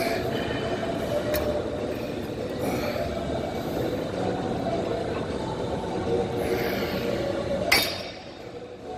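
Passenger rail car running, a steady rumble with a held whine. A sharp clink comes about three-quarters of the way through, and the noise drops briefly after it.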